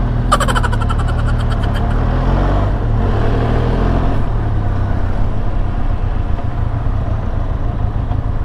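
Benelli TRK 502X parallel-twin engine running in traffic under a steady low rumble, its pitch rising as it accelerates over the first few seconds. A horn sounds in rapid pulses about a third of a second in and lasts roughly two seconds.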